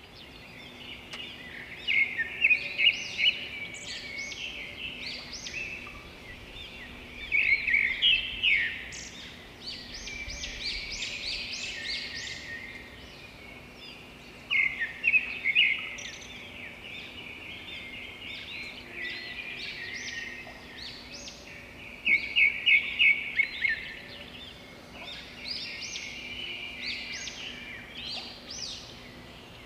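Small birds chirping and twittering without a break, with louder spells of quick, rapid chirps every several seconds. A faint steady hum runs underneath.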